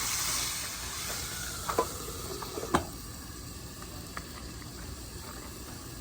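Vegetables frying in olive oil in a pan, the sizzle dying down after about a second, with a few sharp clicks of a utensil around two to three seconds in.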